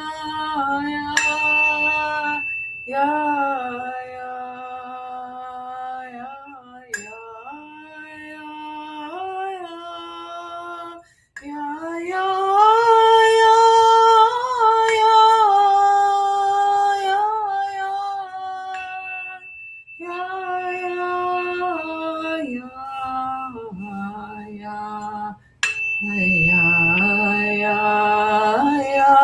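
A woman sings long held vowel tones in slow steps of pitch. A tuning fork is struck several times and rings a high steady tone over the voice.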